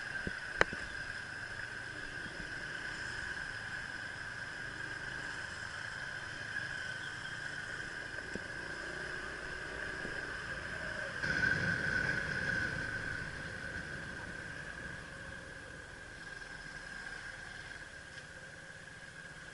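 A steady, high-pitched drone with a sharp click about half a second in, and a vehicle passing by about eleven seconds in, swelling and fading over a few seconds.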